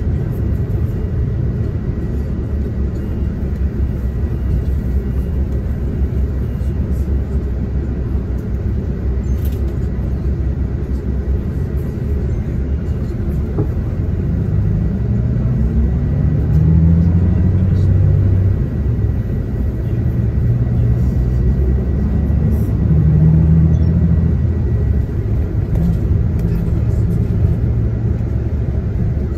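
Diesel coach running on the road, heard from inside the passenger cabin: a steady low engine and road rumble. About halfway through, the engine note climbs as the bus accelerates, and it grows louder again for a few seconds near the end.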